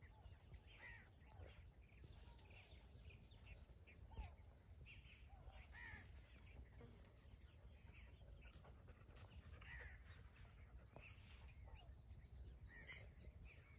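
Faint, scattered short bird calls from the trees, a few a second, over a steady high-pitched hiss.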